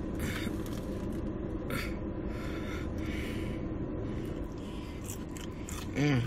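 A person chewing cheese fries, with a few short crunchy mouth and rustling noises over a steady low hum, and a brief hummed "mm" near the end.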